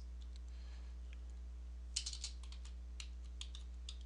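Computer keyboard being typed on: scattered key clicks, with a quick run of keystrokes about two seconds in, over a steady low hum.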